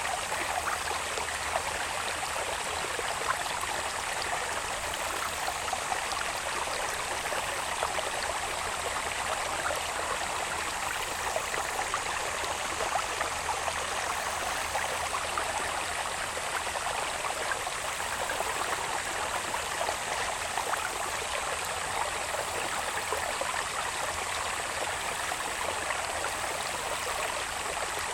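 Water babbling steadily along a small irrigation channel, with a thin, steady high-pitched insect drone over it.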